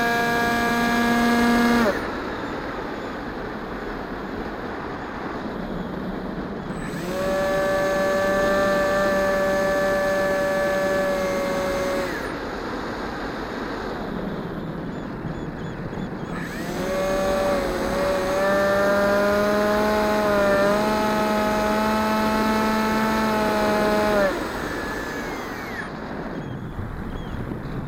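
The electric motor and propeller of a Multiplex EasyStar 2 model plane whine in three bursts of throttle, each held steady for several seconds. In the last burst the pitch wavers. A rushing noise fills the gaps while the motor is off.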